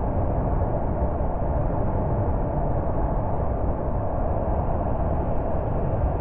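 Steady road and engine noise of a car driving at an even speed, a low rumble with no changes in pace.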